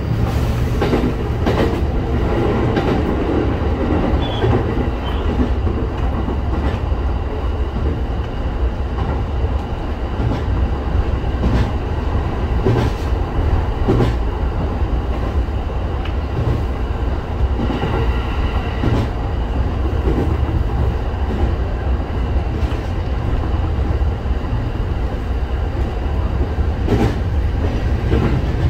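Local passenger train running along the line: a steady low rumble of wheels and motors, with scattered clicks as the wheels pass over rail joints.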